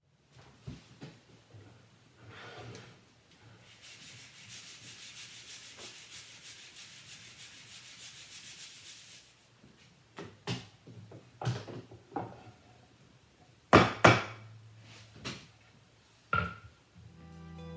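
Hand work on wood: a steady rasping rub for about five seconds, then a string of sharp knocks and clacks of wooden parts being handled, the loudest two close together near the end.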